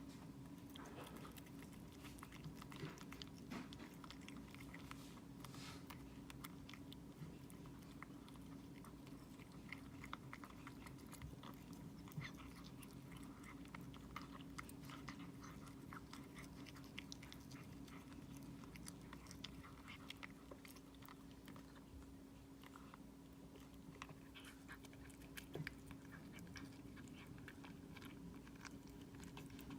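A cat chewing and biting a piece of mackerel treat: faint, irregular small crunches and mouth clicks.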